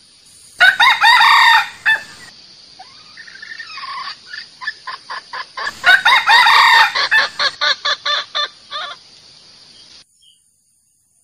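Male jungle fowl crowing twice, about five seconds apart, with a run of quick clucks between and after the crows. A steady hiss under the calls cuts off about ten seconds in.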